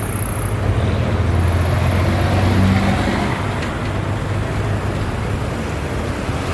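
Highway traffic passing: a heavy vehicle's low engine drone swells, is loudest about two to three seconds in, then fades, over steady tyre and road noise.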